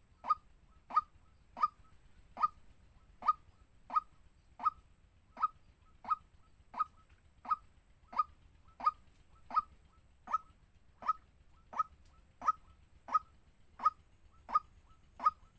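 A bird calling: one short, sharp note repeated at a steady pace, about one every 0.7 seconds.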